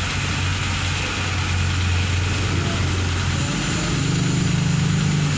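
A motor running steadily with a low hum, which steps up to a higher, pulsing hum about four seconds in.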